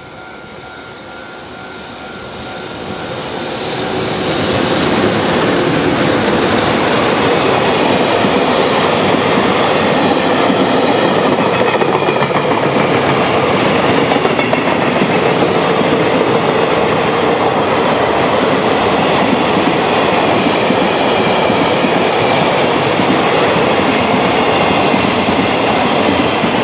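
JR Freight EH500 electric locomotive approaching and passing close by, its noise building over the first four seconds, followed by a long train of Koki container flat wagons rolling past with steady loud wheel-on-rail noise.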